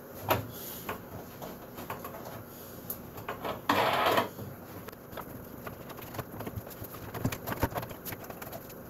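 Handling noises from the wooden cart and its hardware: scattered light knocks and clicks, with one short, louder scraping rasp about four seconds in.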